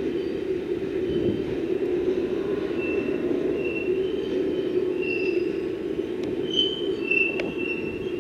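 Freight train rolling along the track with a steady rumble, and from about three seconds in, several brief high-pitched wheel squeals from the wagons.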